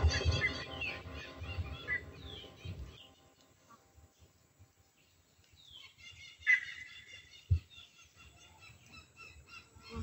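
Background music fading out over the first three seconds, then birds chirping and calling, with a louder call about six and a half seconds in. There is a short low thump about a second later.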